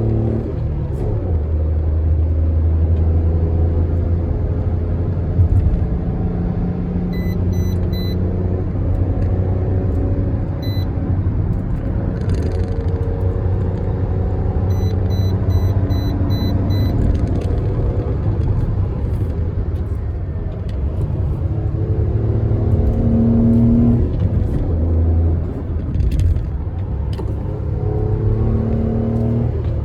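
Toyota Aygo's engine running under way with tyre and road noise, its pitch rising and falling with speed and gear changes.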